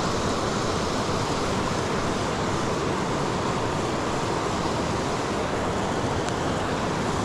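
Steady rush of creek water running over rocks, an even, unbroken noise.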